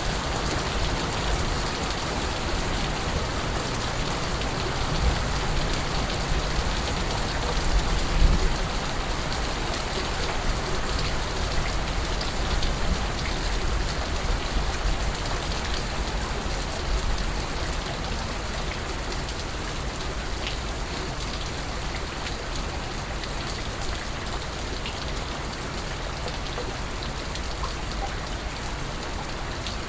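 Steady rain falling, with scattered drips, and a brief low swell about eight seconds in.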